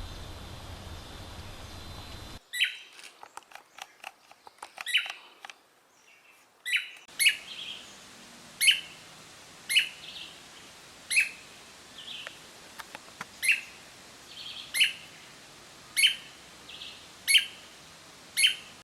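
A bird repeating a short, sharp call that sweeps down in pitch, about once every second and a bit, each call trailed by a softer note. Before the steady series begins, a few seconds of scattered chips and clicks follow a steady background hiss that cuts off suddenly.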